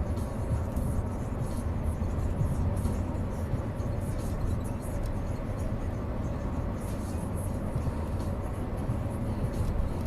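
Steady low rumble of a car driving: engine and road noise, with faint light rattles.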